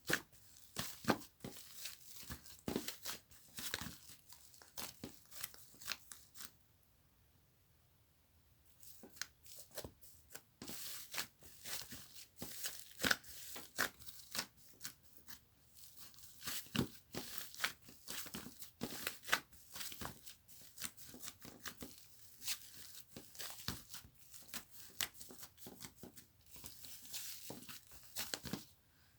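Close-up crackling, crinkling and tearing sounds from hands working a soft material, in quick irregular clicks, with a pause of about two seconds near seven seconds in.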